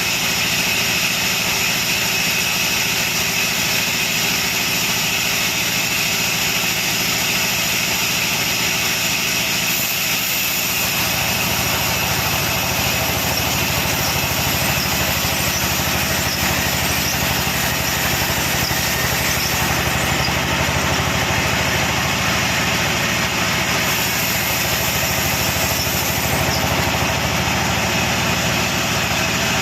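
Sawmill machinery running steadily, a continuous mechanical hum with a high hiss over it; the sound grows fuller and deeper about ten seconds in.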